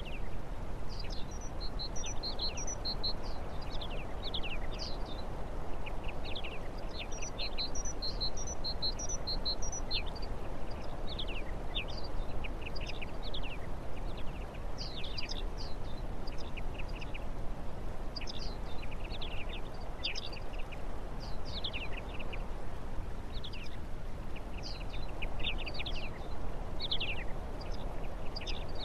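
Birds chirping, many short quick calls, mostly falling in pitch and some in small clusters, over a steady rushing background noise.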